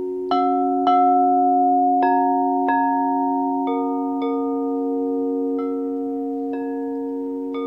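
Quartz crystal singing bowls, alchemy bowls among them, struck one after another about nine times. Each strike sets a different pitch ringing, and the long tones hold on and overlap into a sustained chord.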